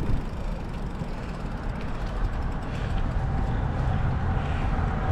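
Steady low wind rumble on the microphone with road noise from a bicycle rolling on wet pavement.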